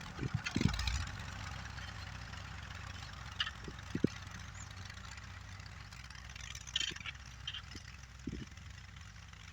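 An engine running steadily at low speed, with scattered knocks and clicks over it, several in the first second and a few more later.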